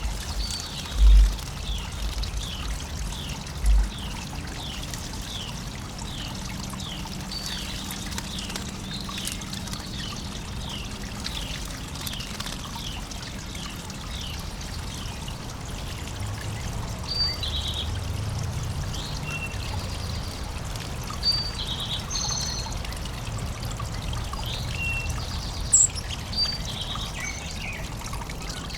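Water trickling and pouring steadily in a backyard bird bath, with songbirds calling over it: a run of evenly spaced short chirps, about one every 0.7 s, for the first dozen seconds, then scattered different calls. A few low thumps near the start.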